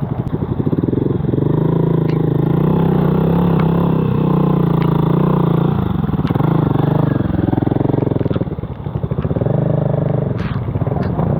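Motorcycle engine running steadily under way, easing off briefly near the end and then picking up again, with a few sharp clicks of clatter.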